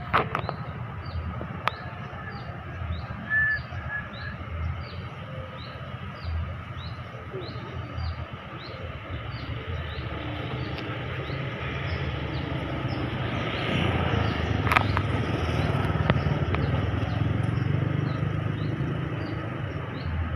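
A small bird chirping steadily, a short high note about twice a second, over a low vehicle rumble that grows louder in the second half.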